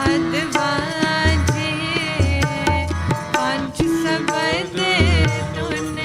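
Devotional Sikh kirtan music: a melody line of gliding, ornamented notes over a steady pattern of tabla strokes, with deep bass drum strokes recurring every second or so.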